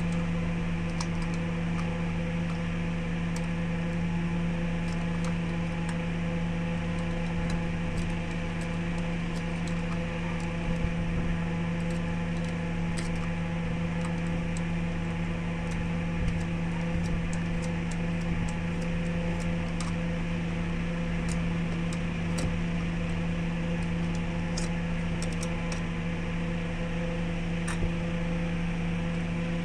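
Electric wood lathe running steadily, a constant motor hum, with scattered light ticks throughout.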